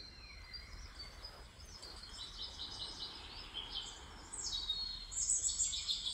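Songbirds chirping in short, quick repeated phrases, growing busier and louder in the second half, over faint steady outdoor background noise.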